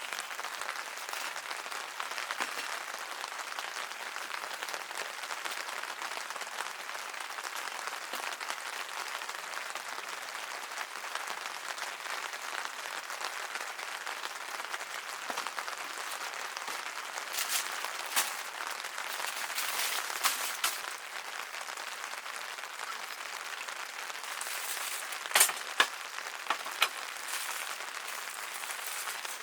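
Steady rain falling, with a few sharp clicks and knocks in the second half.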